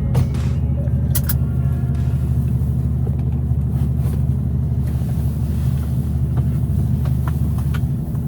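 Semi-truck diesel engine running steadily, a low, even drone, with a few light clicks over it.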